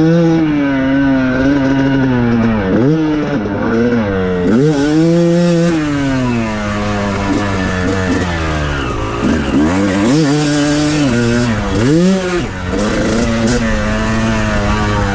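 Yamaha YZ250 two-stroke motocross bike being ridden hard. The engine revs climb and drop off again and again as the throttle is worked.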